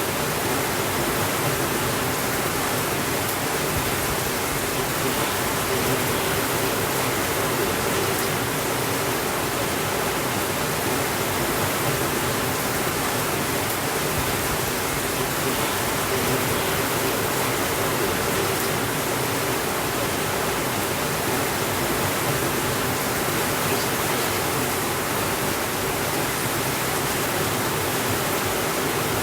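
Steady rainfall, an even hiss that holds the same level throughout, with no thunder.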